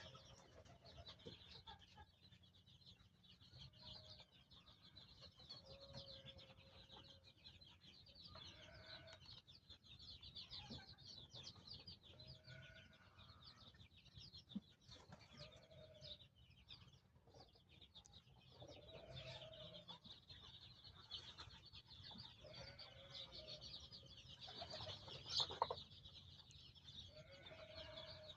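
Baladi (native-breed) chicks peeping, a dense stream of short, high chirps, faint throughout, with a lower short call recurring every couple of seconds and a louder cluster of calls near the end.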